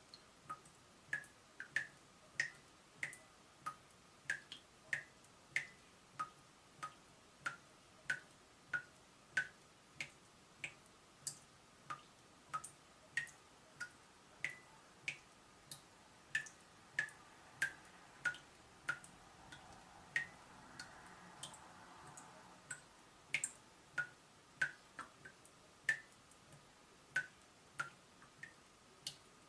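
Water drops from a leaking tap falling one at a time, each a short sharp plink, about one and a half to two drips a second at an uneven rhythm.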